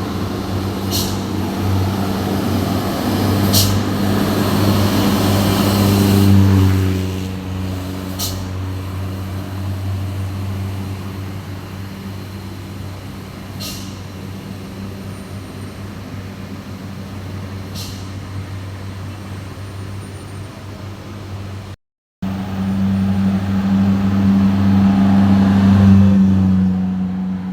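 Diesel engines of heavily laden trucks running at low revs as they crawl slowly past, a steady low drone that is loudest at the start and again near the end. A few short, sharp bursts cut through it in the first half.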